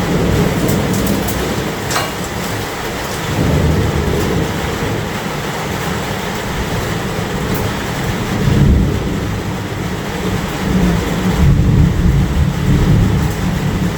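Steady heavy rain with low rolls of thunder that swell and fade several times.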